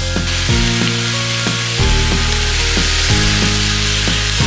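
Chopped chicken sizzling and frying in a hot wok on high flame as it is stirred with a metal ladle, a steady hiss under background music whose notes change about once a second.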